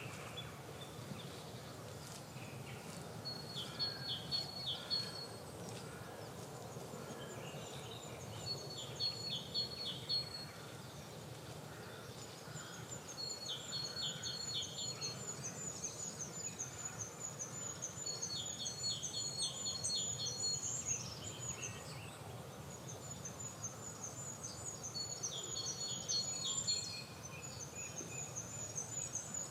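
Songbirds singing in a spring garden chorus: one bird repeats a short phrase about every five seconds, and from about halfway through another sings long runs of very high, rapidly repeated thin notes. A steady low background noise runs underneath.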